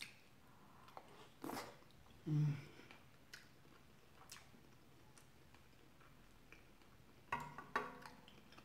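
A person chewing a big spoonful of chicken tikka masala and rice close to the microphone: scattered wet mouth clicks and smacks, with a short hummed "mm" a little over two seconds in and a cluster of smacks near the end.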